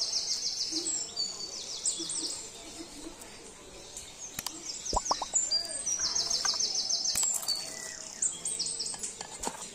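Small birds chirping in quick, high trills, phrase after phrase, with a sharp click about halfway through.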